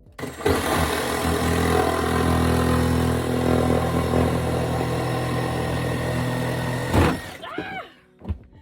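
A motor runs steadily at a constant pitch for about seven seconds, then cuts off abruptly and winds down with a falling tone.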